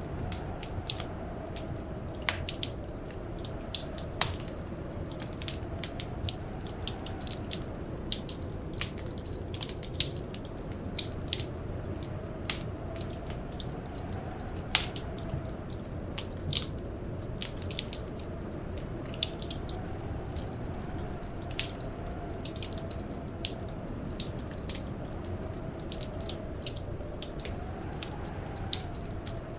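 Wood fire crackling, with irregular sharp pops and snaps over a steady low rumble. A faint whistle of blizzard wind slowly rises and falls underneath.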